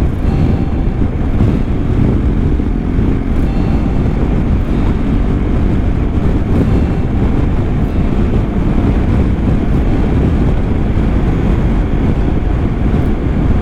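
Steady rush of wind and road noise while riding a BMW R1250 motorcycle at speed in heavy rain, the engine running underneath.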